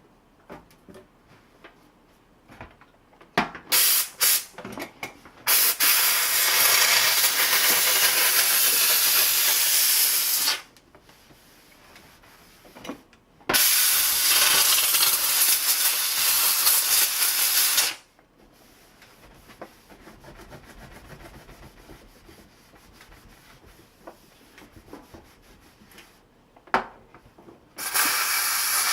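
Kärcher SC1 steam cleaner blowing steam from its nozzle in loud hissing blasts: a few short spurts, then two long blasts of about five and four seconds, and a short one near the end. Faint clicks fill the gaps between blasts.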